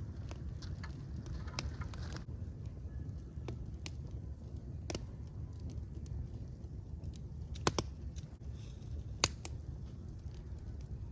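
Wood fire burning with a steady low rumble and scattered crackles, two louder pops coming late on.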